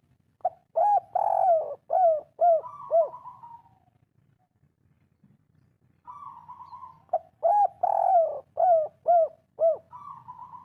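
Spotted dove (tekukur) singing its three-part 'kuk 3' cooing song twice. Each phrase is a quick run of short, arched coos with a longer drawn-out coo.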